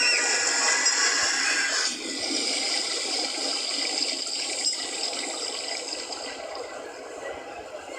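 Rushing, splashing water that slowly dies down, with a high whistling tone over it for the first two seconds.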